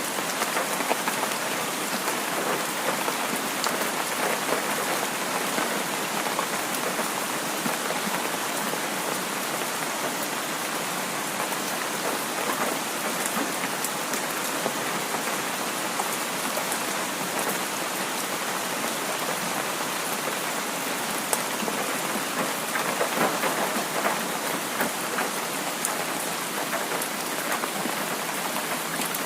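Heavy rain falling steadily: an even hiss of rain with fine patters of individual drops.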